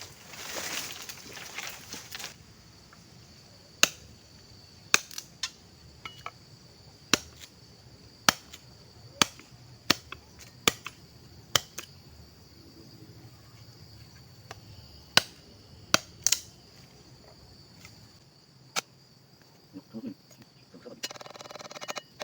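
Firewood cracking with sharp, irregular snaps, about a dozen and a half, some very loud, over a steady high drone of insects.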